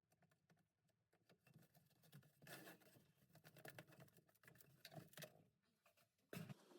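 Near silence with faint, scattered clicks and rustles, a few slightly stronger around the middle and near the end.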